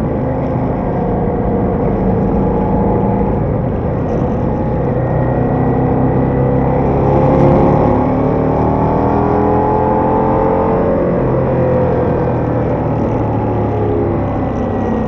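Ducati Diavel motorcycle engine and exhaust running under way, the revs climbing through the middle and then falling back near the end.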